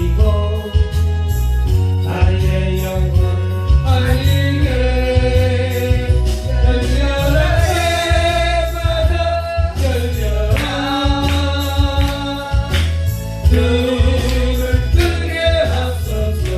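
Gospel song performed live with amplified backing music: a singer holding long, bending notes over a steady bass beat and regular percussion.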